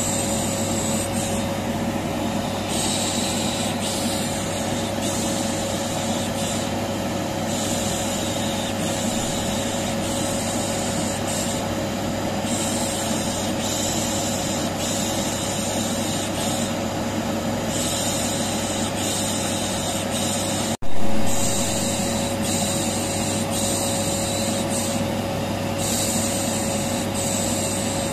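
Vacuum cleaner running steadily with a constant hum, overlaid with a person's repeated 'shh' shushing that comes and goes every second or two, used as white noise to calm a colicky baby. About three-quarters of the way through the sound cuts out for an instant and comes back slightly louder.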